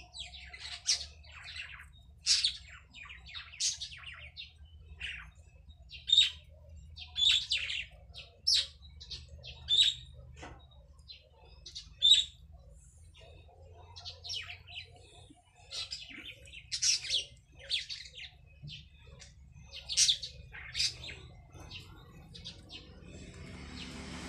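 Small birds chirping in short, sharp, irregular calls, sometimes several in quick succession, over a faint low hum.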